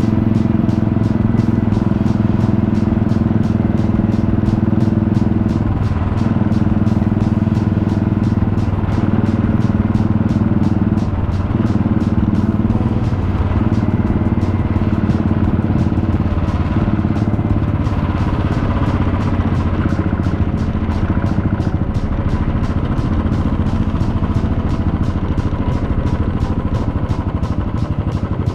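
Motorcycle running at road speed: a steady engine note with wind and road noise, its pitch shifting a little now and then with speed.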